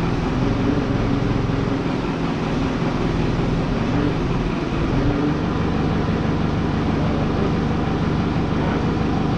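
An engine running steadily at a constant speed, with a low hum under a wide, even noise.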